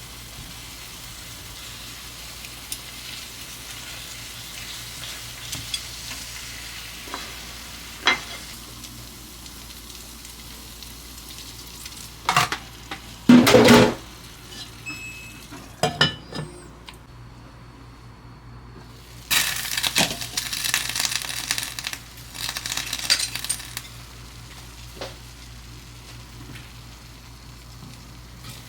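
Food sizzling in a frying pan with a steady hiss. Utensils clink and clatter against the pan and dishes several times, with a louder stretch of sizzling and scraping a little past the middle.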